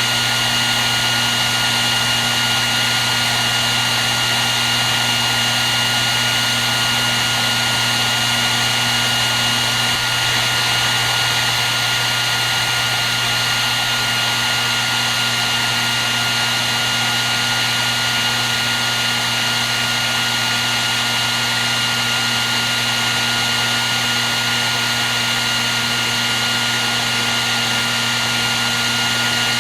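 Hair dryer running steadily: a constant rush of air with a steady motor whine over it.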